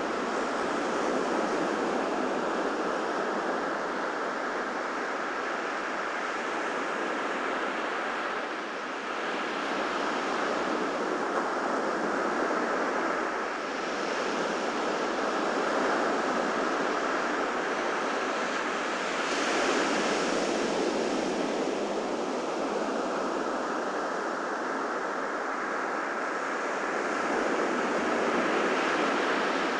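Ocean waves breaking and washing up on a beach, a steady surf hiss that swells with each wave every few seconds.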